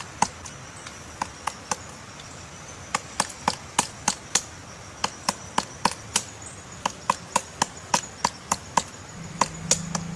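Woodpecker pecking at wood with its beak: sharp single knocks, a few at first, then an uneven run of about three a second.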